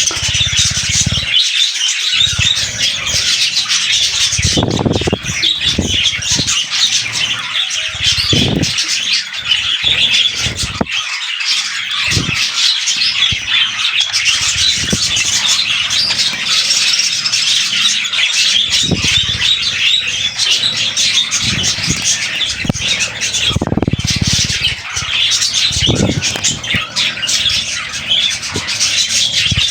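Budgerigars chattering and warbling without a break, high and busy, with low thumps now and then.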